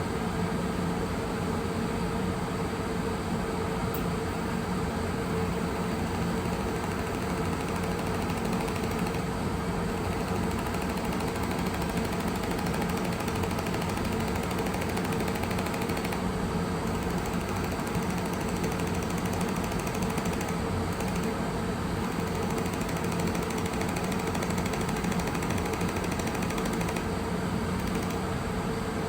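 Pulsed YAG laser welding machine running: a steady mechanical hum with a fast, even ticking from the laser pulses.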